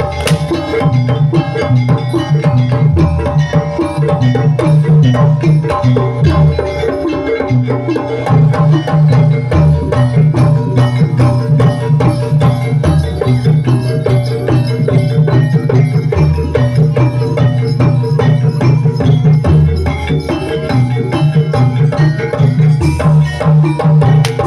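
Live jaranan (kuda lumping) ensemble music: drums and tuned percussion keep up a dense, fast rhythm over a recurring low drum pattern.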